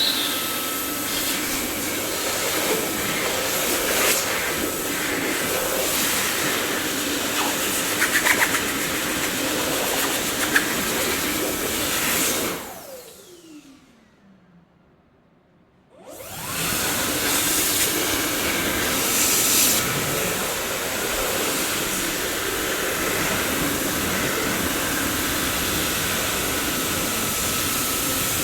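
Dyson vacuum cleaner running with a steady rushing noise. About halfway through it is switched off and the motor winds down with a falling whine to near silence. Some three seconds later it starts up again abruptly and runs on steadily.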